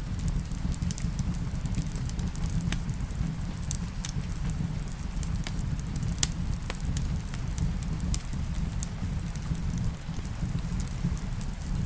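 Wood fire in a fireplace crackling, with irregular sharp pops and snaps over a steady low rumble, and soft rain mixed in underneath.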